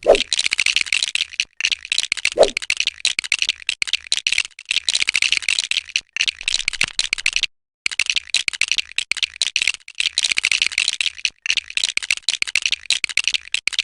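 Plastic Lego bricks rattling and clicking in a fast, dense clatter, with brief pauses. A short falling tone sounds right at the start and again about two and a half seconds in.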